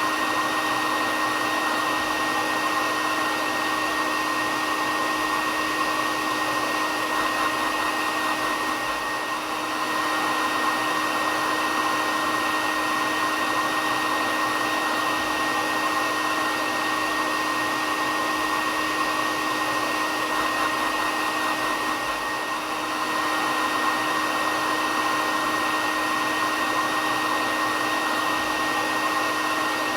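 Hair dryer running continuously at a steady level, an even rushing whir with a steady low hum and a high whine, dipping slightly twice.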